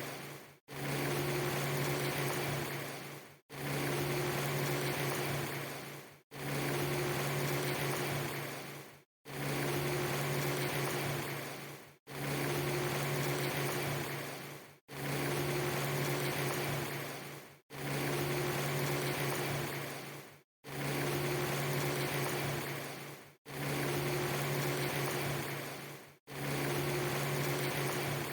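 A steady noisy hiss over a low droning hum, played as a short loop that repeats about every three seconds, each pass fading out and cutting to a brief gap of silence, about ten times in all.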